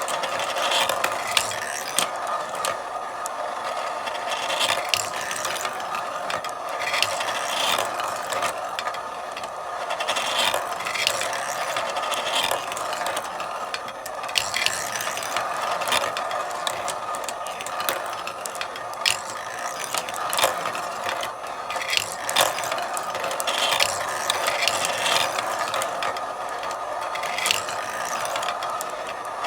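Marbles rolling along a marble run with a steady rolling rumble, broken by frequent irregular clicks and clacks as they knock against the track and each other.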